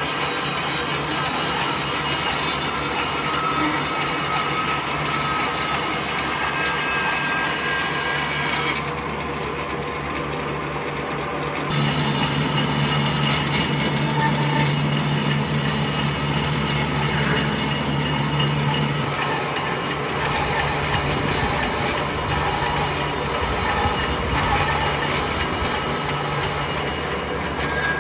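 Woodworking power tools running against wood, a steady noisy grinding sound that changes character abruptly a few times.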